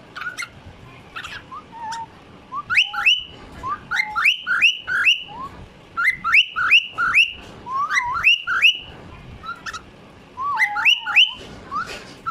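Cockatiel whistling: phrases of short, quick notes that slide upward, several in a row, with brief pauses between the phrases.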